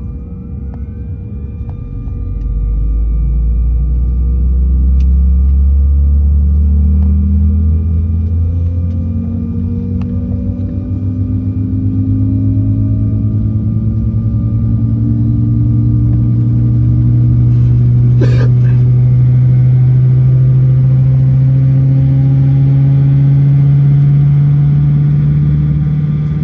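Airliner's engines spooling up for the takeoff roll, heard from inside the cabin. A loud rumble swells about two seconds in, and a low tone then climbs slowly and steadily in pitch as the plane gathers speed. There is a single sharp click about two-thirds of the way through.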